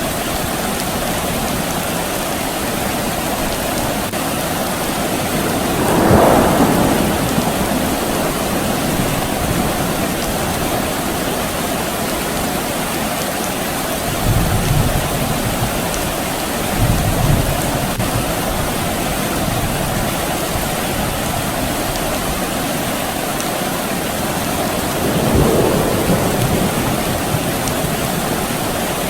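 Steady soft rain falling, with distant thunder rumbling four times, briefly swelling over the rain each time.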